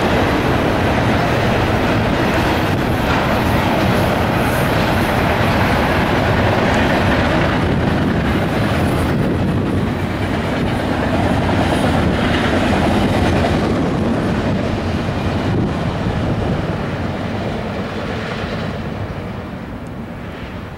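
CSX double-stack intermodal freight train's well cars rolling past, steel wheels running on the rails with a steady noise that grows quieter over the last few seconds.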